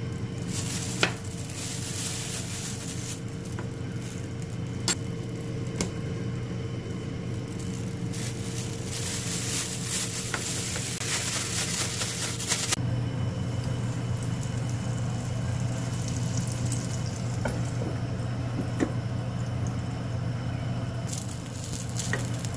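Food sizzling in a hot frying pan, a continuous crackling hiss that swells and eases, over a steady hum. There are a couple of sharp utensil clicks, about one second and about five seconds in.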